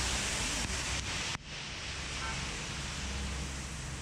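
Heavy rain pouring down as a steady, even hiss, with some wind noise on the microphone; the level drops suddenly about a second and a half in, then the hiss goes on a little quieter.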